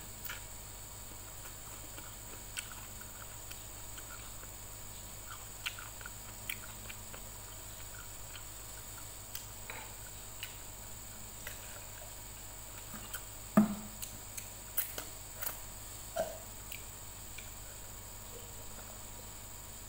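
Close-up eating sounds: sparse soft mouth clicks and chewing of raw long beans and rice. A single sharper knock comes a little past halfway.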